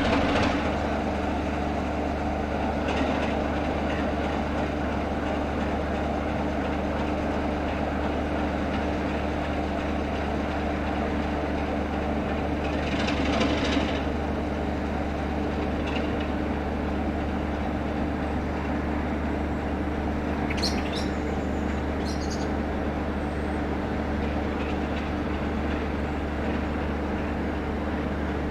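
Class 33 diesel-electric locomotive's Sulzer eight-cylinder engine running steadily. A couple of short high squeaks come about three quarters of the way through.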